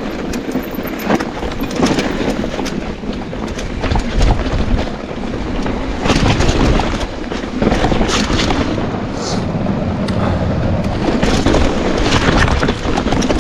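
Mountain bike running down a rough downhill trail: tyres rumbling over dirt and rocks, with constant irregular knocks and clatter from the bike's frame, chain and suspension over the bumps.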